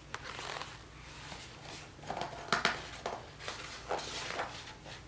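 Soft, irregular rustling and handling of a picture book as its pages are turned, in a string of short uneven bursts.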